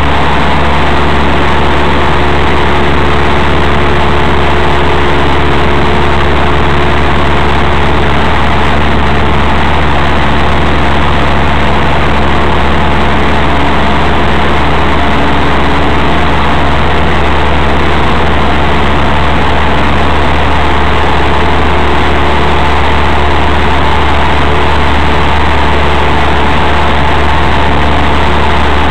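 Cessna 172's piston engine and propeller droning steadily in flight, heard from inside the cabin through a cheap dash camera's microphone.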